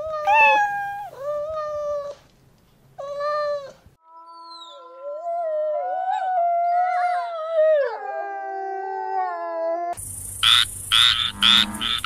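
A kitten meowing three times, then a wolf howling in one long, wavering call, then a frog croaking in quick, repeated croaks near the end.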